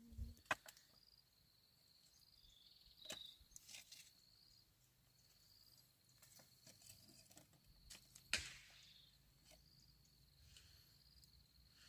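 Faint, steady high trilling of insects such as crickets, with a few sharp knocks, the loudest about half a second in and again about eight seconds in.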